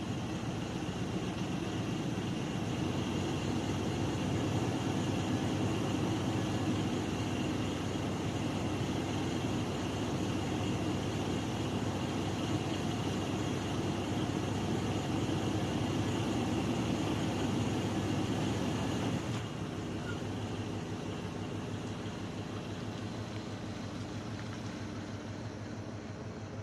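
1992 Chevy 4x4 pickup's engine idling steadily just after being started, its sound dropping a step about 19 seconds in.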